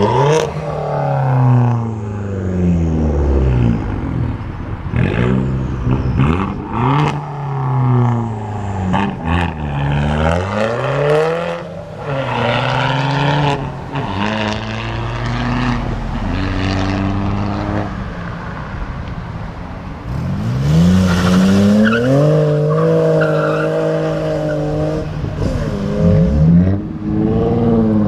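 Cars accelerating away one after another, their engines revving up and falling back as each one pulls off and passes. From about twenty seconds in, one engine is held at high revs for several seconds.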